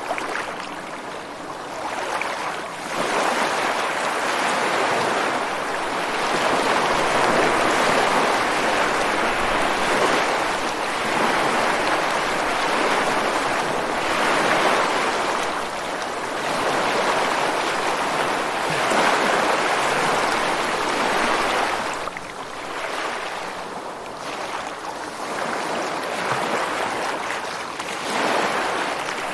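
Ocean waves breaking and washing ashore onto rocks, a continuous rushing surf that swells and eases over several seconds. The wash is loudest through the middle and dips a little before building again near the end.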